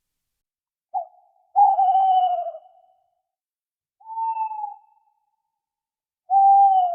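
Four hoot-like calls, each a single slightly falling note, separated by silence; the first is a short blip and the second is the longest.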